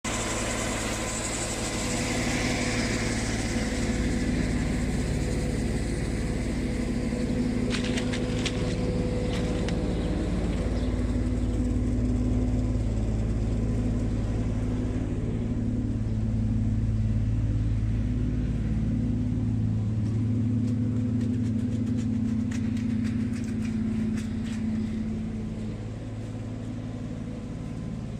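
Washing machine running with a steady low mechanical hum, its drain pump working. A few light clicks come through twice along the way.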